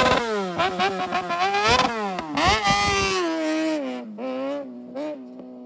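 Kawasaki 636 inline-four sportbike engine in a Yamaha Raptor 350 ATV, revving hard with its pitch climbing and dropping several times as the throttle and gears change. Over the last couple of seconds it settles into a long falling note and fades.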